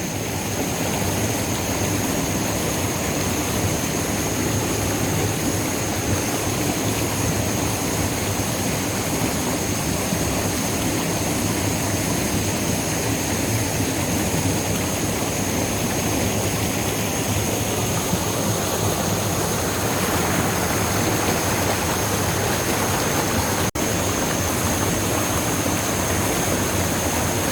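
Steady rushing of waterfall water, an even noise with no let-up.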